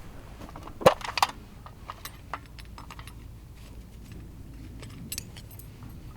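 Two sharp metallic-sounding clinks about a second in, followed by scattered light taps and clicks of small objects being handled.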